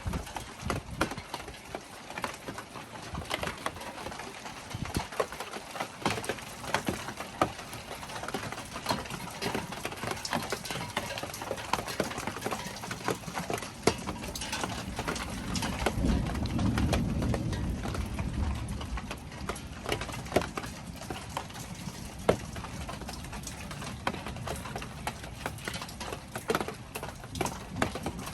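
Rain pattering, with irregular sharp drips tapping on a hard surface throughout. About halfway through, a low rumble of thunder swells and fades over a few seconds.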